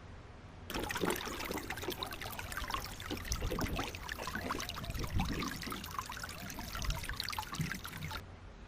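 Water pouring and trickling, a splashy, irregular sound that starts abruptly just under a second in and cuts off abruptly near the end.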